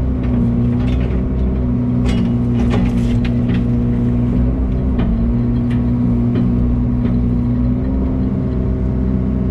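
Heavy diesel engine running steadily, with a few short knocks and clatters about two to three seconds in and again around five seconds.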